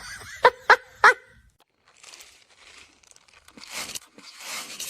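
A dog gives three short, sharp barks close together in the first second or so, followed by softer rustling and crinkling noise.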